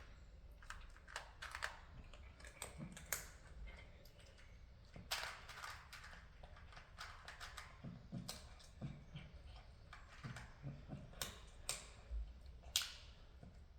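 Cats moving about: irregular light clicks and scratchy taps, with a few sharper clicks and some soft low thuds.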